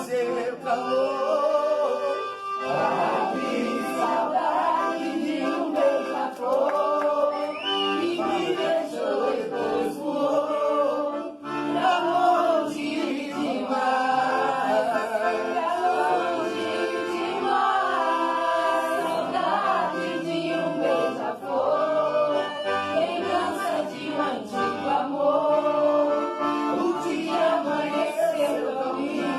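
Sertanejo song sung by several voices together over accordion accompaniment.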